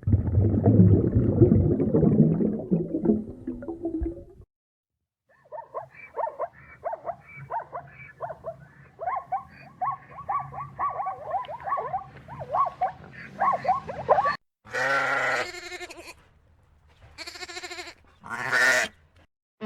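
A run of animal calls from different clips. First comes a loud, noisy, rough stretch of about four seconds. After a short gap there are many quick short calls in rapid succession, and near the end three loud, drawn-out bleats of livestock.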